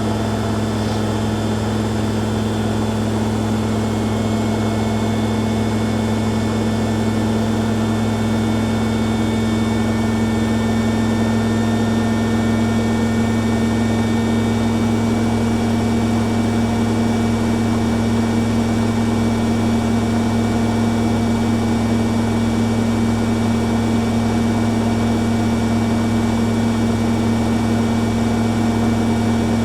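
Two front-loading washing machines, a Hoover Dynamic Next DXA610IW3 and a Beko Pro AquaTech, spinning together at high speed. A steady loud hum with a thin high whine over it, getting a little louder partway through.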